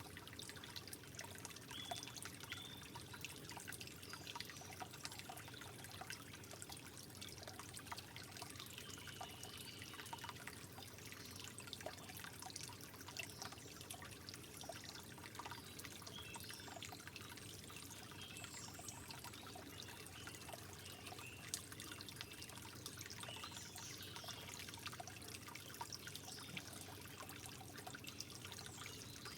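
Water trickling softly and steadily, with many small drips and gurgles.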